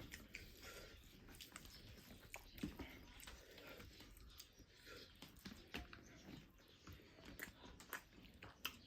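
Faint eating sounds: chewing with scattered small, irregular clicks and crunches.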